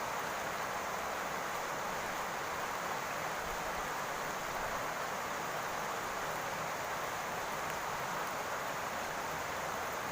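Steady rain falling on a roof, an even hiss with no separate drops or gusts standing out.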